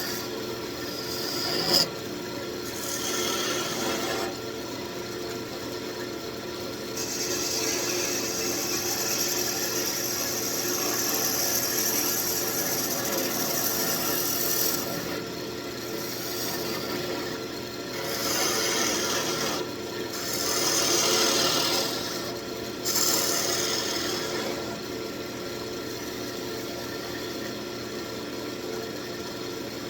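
Wood lathe running with a steady motor hum while a hand-held turning tool cuts the spinning wood, scraping in repeated passes that come and go every few seconds. A sharp click sounds about two seconds in.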